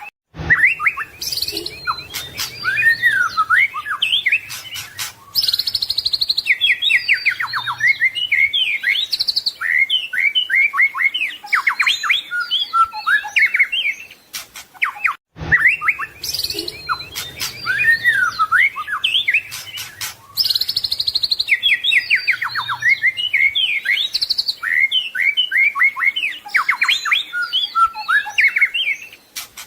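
White-rumped shama (murai batu) singing a rapid, varied song of whistles, trills and chattering phrases, packed with mimicked 'isian' notes. The same stretch of about 15 seconds is looped: it breaks off abruptly about 15 seconds in and starts again.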